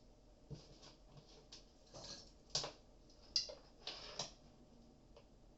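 Faint clicks and taps of a plug-in relay being pushed back into its socket on a circuit board, with handling of the board. The sharpest clicks come a little past the middle.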